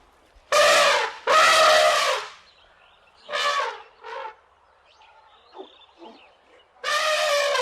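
Loud, brassy animal calls: two calls of about a second each, two shorter fainter ones, then a long held call near the end.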